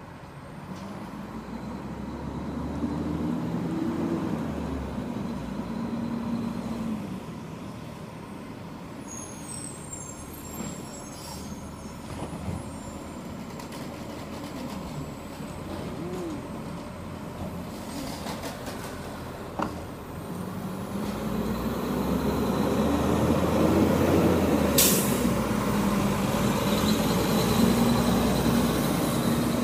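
Garbage truck's diesel engine running, swelling louder twice as it works, loudest near the end, with a short sharp hiss about 25 seconds in.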